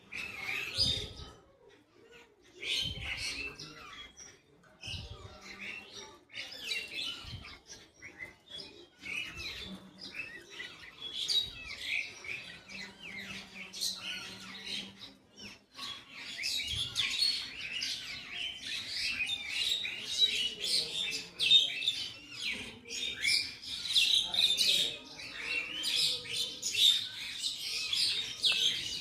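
Birds chirping, many short calls overlapping, growing busier about halfway through. A few dull low thumps come in the first half.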